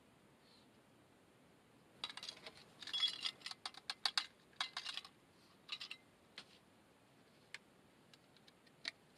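A quick flurry of small clicks and rattles from about two seconds in, thinning out after six seconds to a few single ticks.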